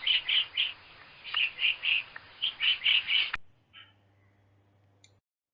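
Recorded woodpecker calls: short, sharp, high notes in quick groups of three or four, repeated three times, cutting off suddenly about three and a half seconds in.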